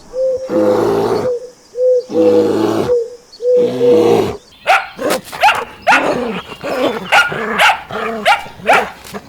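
Animal calls: three long calls held at one pitch, then from about halfway a quick run of short, sharp, bark-like calls.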